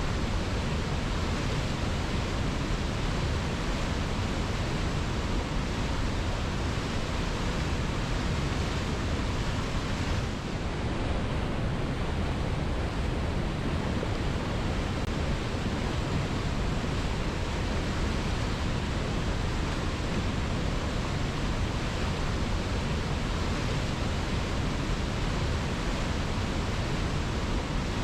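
Waterfall pouring: a steady, even rush of falling water, dipping slightly for a moment about ten seconds in.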